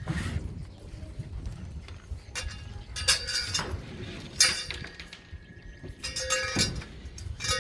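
Steel rebar and tools clanking on a building site: irregular metallic strikes a second or more apart, several with a short ringing tone.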